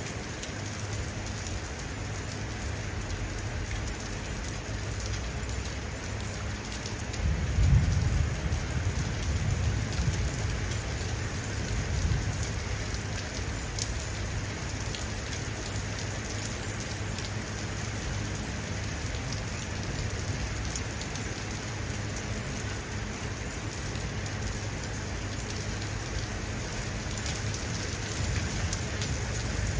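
Steady rain falling on surfaces, with a low rumble of distant thunder swelling about eight seconds in.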